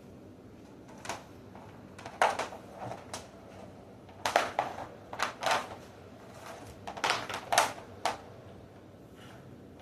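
A string of irregular sharp clicks and knocks, about a dozen, with no motor running.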